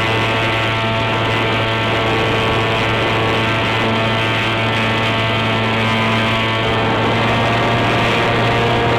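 NTM Prop Drive 28-26 brushless outrunner motor turning an 8x6 propeller in flight: a steady whine made of several tones over a low hum, its pitch shifting a little with throttle partway through.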